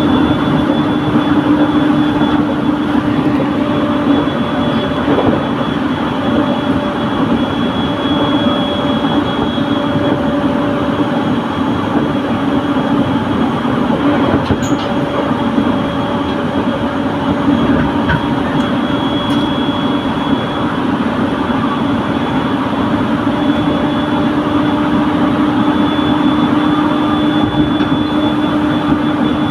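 IGR Iwate Galaxy Railway passenger train running steadily along the line: a continuous rumble of wheels on rail with a steady hum under it.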